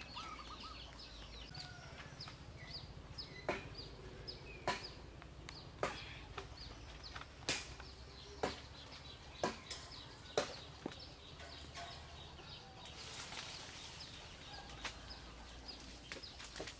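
Outdoor ambience of birds chirping in quick, repeated high notes, with a series of sharp clicks about once a second through the middle.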